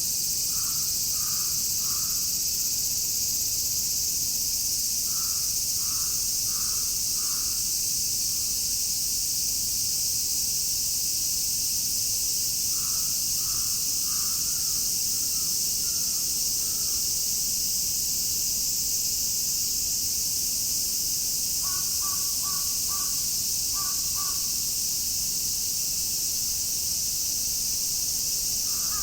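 Chorus of summer cicadas shrilling steadily, with a crow cawing in runs of three or four caws, five times over.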